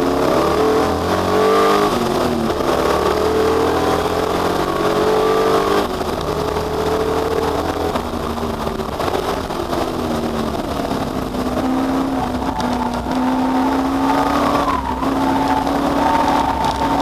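V8 muscle race cars at full throttle on a circuit, several engines at once, pitch climbing through the gears and dropping back as they lift off, with a short dip about six seconds in and a long falling then rising note in the second half.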